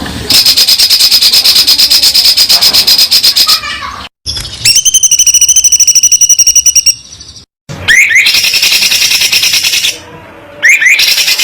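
Spliced recordings of songbirds' rapid-fire song: a long fast run of high repeated notes, then a quick trill of clear ringing notes, then rising whistled sweeps and fast chatter. Each segment cuts off abruptly into the next.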